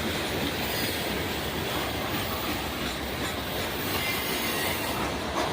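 A train's railcars rolling past on the track: a steady rumbling rattle of wheels on rail, with a faint wheel squeal about four seconds in.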